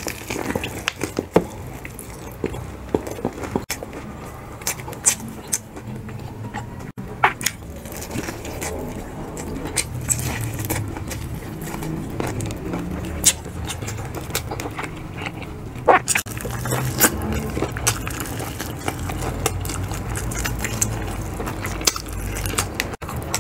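Close-up eating sounds of crispy fried chicken being bitten and chewed: sharp crunches of the fried breading scattered throughout, over continuous wet chewing.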